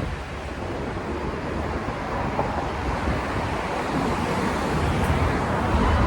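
Steady rushing outdoor noise of wind buffeting the phone's microphone over street traffic.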